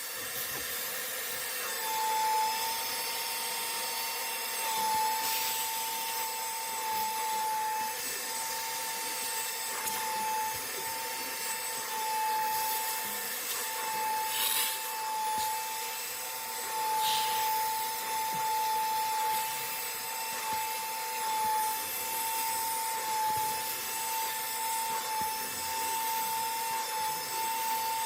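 An electric cleaning motor running steadily, a constant whine over a hiss, setting in about two seconds in. It is working the stained cloth seats.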